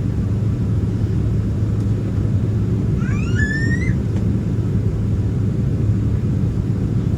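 Steady low rumble of a Boeing 767-300ER cabin on the ground, the engines running at idle. About three seconds in, a short rising squeal sounds over it for about a second.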